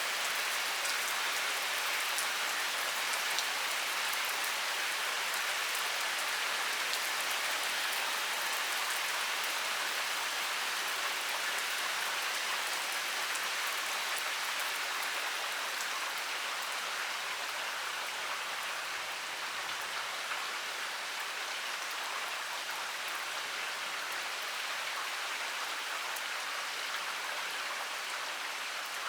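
Heavy rain pouring steadily, a dense hiss of drops with fine scattered patter, easing very slightly in the second half.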